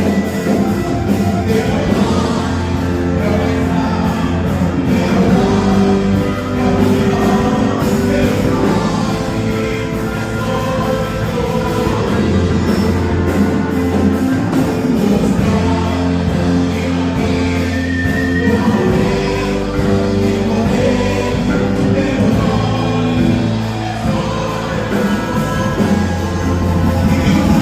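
Gospel worship band playing a song with singing over a steady bass and held chords.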